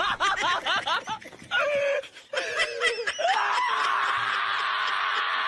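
Someone laughing hard in quick bursts, then a long, steady, high-pitched shriek.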